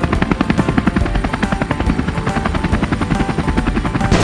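Helicopter rotor sound effect: a fast, steady chopping beat.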